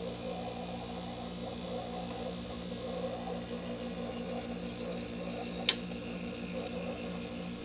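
Window air conditioner's rotary compressor running with a steady hum and a faint airy hiss. A single sharp click about five and a half seconds in.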